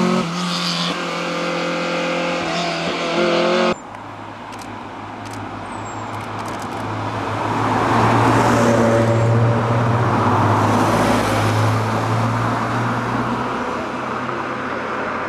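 A sports car engine running steadily, cut off abruptly about four seconds in. Then another sports car's engine grows louder as it approaches, is loudest about eight to nine seconds in, and fades as it goes by.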